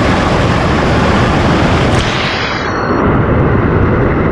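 Loud, steady rushing noise that starts abruptly; about two seconds in, its hiss is cut off from the top down, leaving a duller rumble.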